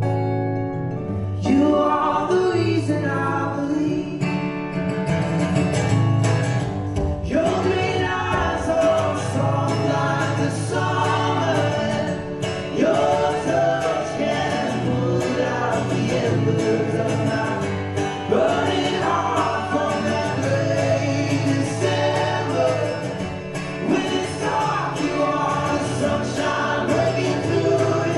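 Music: a slow song with singing over guitar accompaniment.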